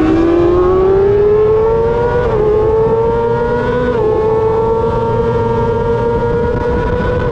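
Superbike racing motorcycle engine accelerating hard through the gears, its pitch climbing and then dropping at two quick upshifts, about two and four seconds in, before holding at high revs, over constant wind rush.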